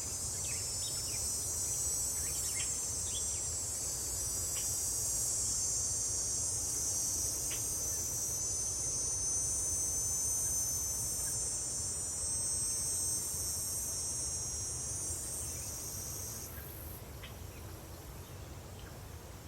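Countryside ambience: a dense, steady chorus of insects such as crickets and cicadas, high-pitched and shrill, with a few faint bird chirps and a low distant rumble underneath. The insect chorus cuts off near the end.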